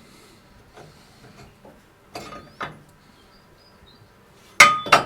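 Light taps and handling, then two loud metal clanks near the end, half a second apart, each ringing briefly. The sound is a steel engine-mount bracket being knocked into place against the chassis during a test fit.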